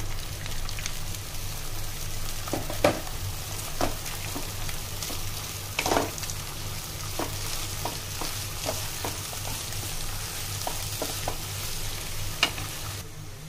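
Sliced bitter gourd sizzling in hot oil with fried onions in a non-stick pan, a steady hiss, while a wooden spatula stirs it with frequent clicks and scrapes against the pan and a few sharper knocks.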